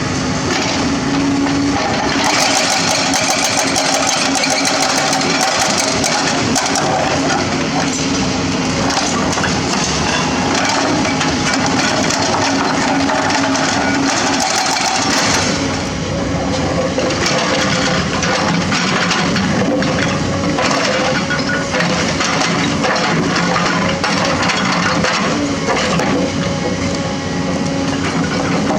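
Excavator running under load while its bucket digs and breaks up road asphalt, with a steady engine note under irregular crunching, cracking and scraping of broken asphalt.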